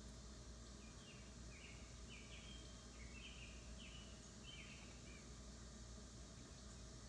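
A bird giving a faint series of about eight short chirps over about four seconds, heard over steady background hum.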